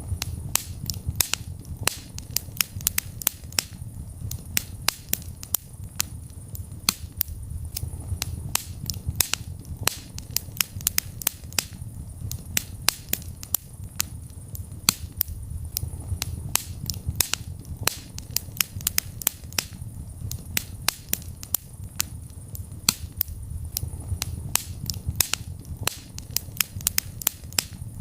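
Wood fire in a fireplace crackling, with many sharp snaps and pops over a steady low rumble of the flames.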